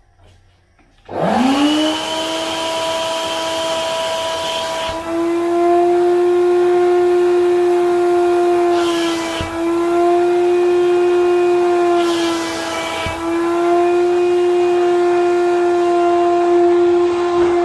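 Wet vacuum cleaner switched on about a second in, its motor spinning up quickly to a steady high whine with a rush of air. The whine dips slightly in pitch twice while the rushing air briefly gets louder.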